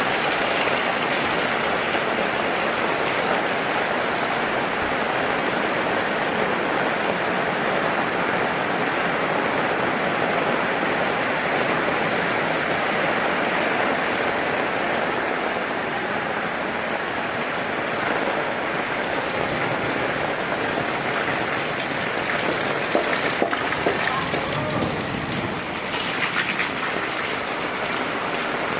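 Heavy rain falling steadily, a dense even hiss of drops. A few sharper taps stand out briefly near the end.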